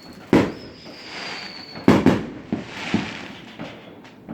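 Fireworks going off: a sharp bang, then a high whistle that slowly drops in pitch for about a second and a half, cut off by two quick bangs about two seconds in, followed by another bang and a crackling hiss.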